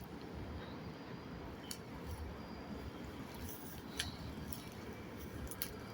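Faint low rumble, like wind or handling noise on a phone microphone, with a few scattered light clicks about two seconds in, at four seconds and near the end.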